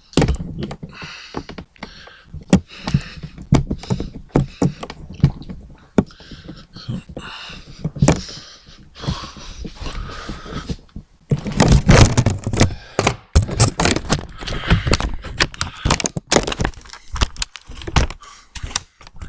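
A string of knocks and thumps with rustling, thicker and louder from about halfway through.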